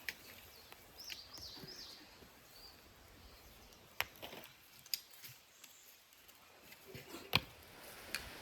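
A few scattered sharp knocks and clicks, the loudest near the end, with a short chirping bird call about a second in.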